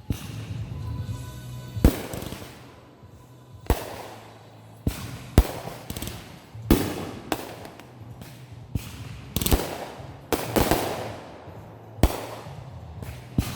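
Consumer fireworks going off: about a dozen sharp bangs spaced irregularly, with crackling between them.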